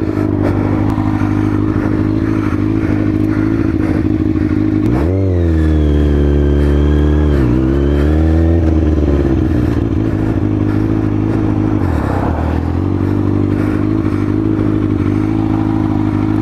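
Kawasaki ZX-6R inline-four engine idling steadily. About five seconds in it revs up, held with a brief dip and a second rise, then drops back to idle about four seconds later.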